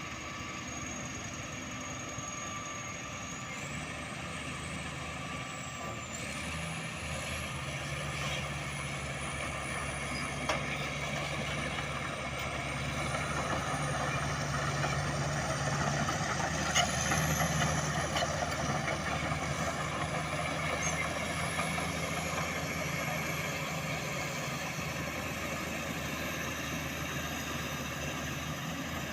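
Diesel dump truck engine running, growing louder towards the middle and then easing back.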